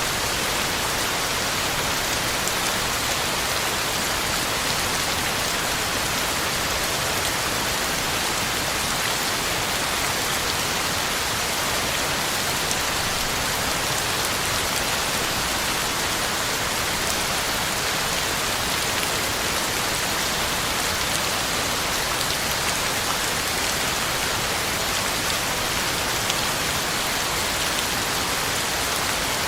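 Heavy rain falling steadily, pattering on the ground and leaves, with no thunder heard.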